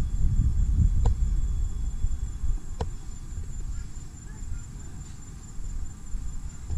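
Steady high-pitched insect drone, with a low rumble under it that fades after the first couple of seconds. Two sharp clicks come about a second and a half apart near the start.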